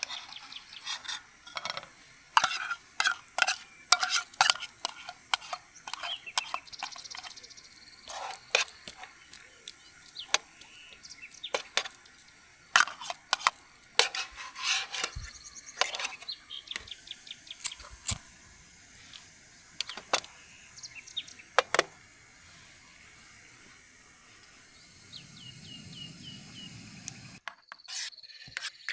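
A metal utensil clinking and scraping against camp cookware while food is stirred, in irregular sharp clinks one to three a second. A bird chirps a few quick notes near the end.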